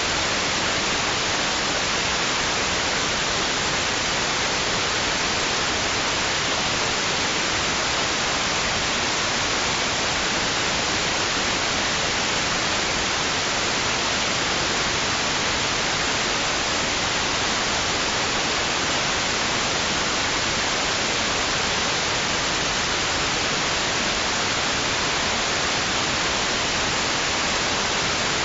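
Steady white noise: an even, unchanging hiss, weighted toward the high end, with no swells or breaks.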